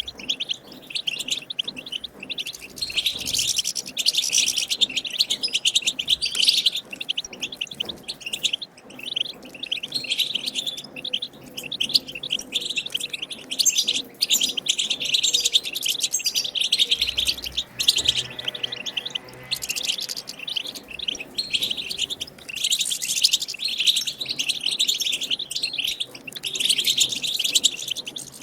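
European goldfinch song: fast, liquid twittering phrases, one after another with brief pauses. It is the wild-bird song used to stimulate caged goldfinches to sing.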